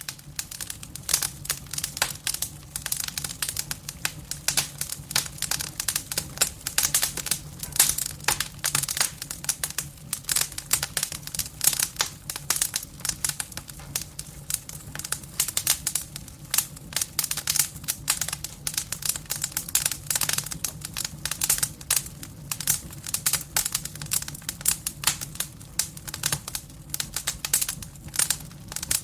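Firewood burning in a fireplace, with dense, irregular crackling over a low steady hum.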